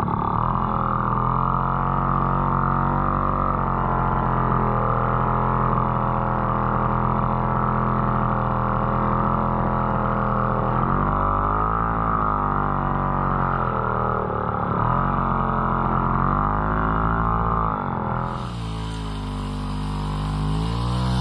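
Puch Maxi moped's small single-cylinder two-stroke engine running under way with a steady drone. In the second half its pitch dips and climbs again several times as the throttle is eased and reopened.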